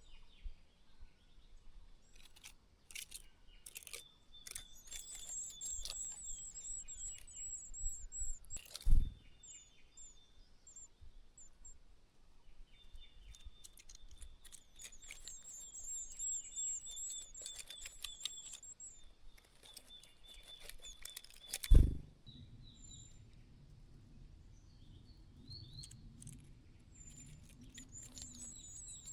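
Treecreepers giving very high, thin, wavering calls in runs of several seconds, with scratchy clicks between them. Two short dull thumps, one about a third of the way in and one about three quarters of the way in, are the loudest sounds.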